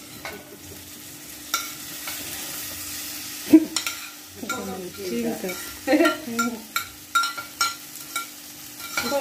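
Boiled beans scraped off a plate with a knife into a pot of hot frying onions and spices, sizzling, with repeated knife clicks and scrapes against the plate and pot.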